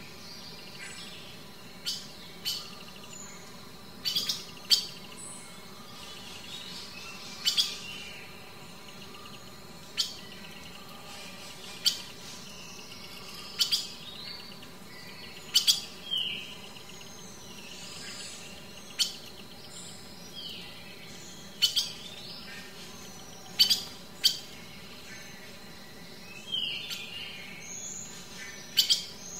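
Birds chirping: short, sharp high chirps every second or two, with a few longer sweeping calls in between.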